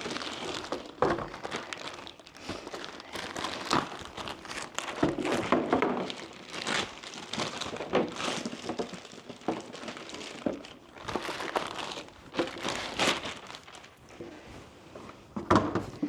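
Crinkly packaging being rustled and pulled about while new plastic gear boxes are unwrapped, in irregular crackling bursts with short sharp clicks and knocks.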